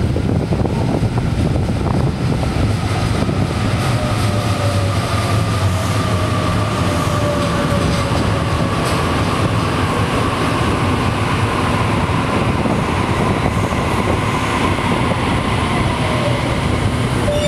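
Sydney Trains Waratah (A-set) double-deck electric train arriving at the platform and braking: steady wheel-and-track rumble with a whine that slowly falls in pitch as it slows to a stop.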